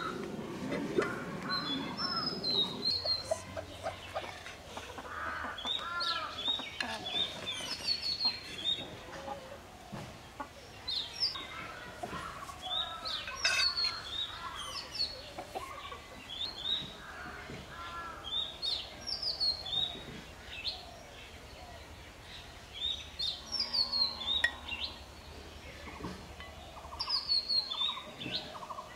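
Birds calling: repeated short, high chirps that fall in pitch, with lower calls in between. A few light knocks sound among them.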